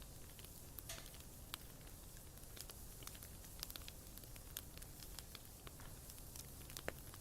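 Bonfire burning, with faint irregular crackles and pops of the wood over a low steady rumble.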